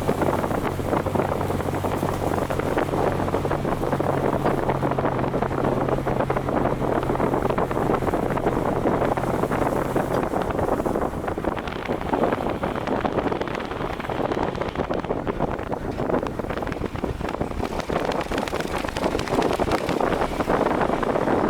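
Heavy wind noise on the microphone of a moving vehicle, with a steady low engine hum under it that drops away about halfway through.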